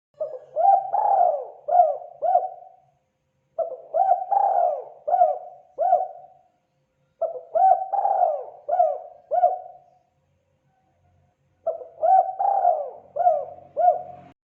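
Spotted dove (terkukur) cooing: four repeated phrases of about five coos each, with a short pause between phrases.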